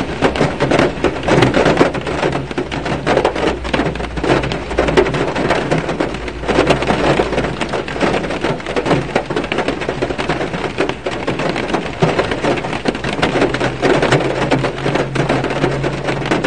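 Rain drumming on a car's roof and windshield, heard from inside the car as a dense, irregular patter of many small taps, over a steady low hum.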